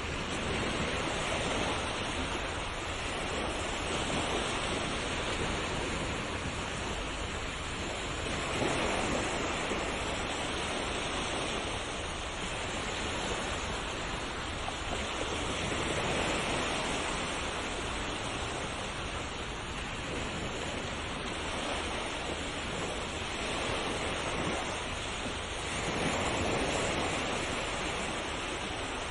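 Sea waves breaking and washing in continuously, the surf rising and falling in gentle swells every few seconds.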